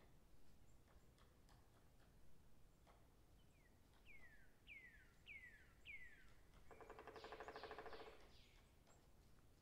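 Faint wild birdsong: five clear whistled notes, each sliding down in pitch, then a rapid rattling trill of about a second near the end, the loudest sound.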